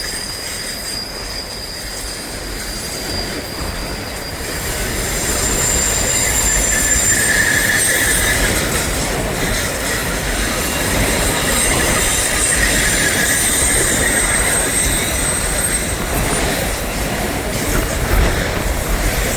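Florida East Coast Railway train passing: steel wheels squealing in high, steady tones over a rumble, growing louder about five seconds in. Strong wind buffets the microphone throughout.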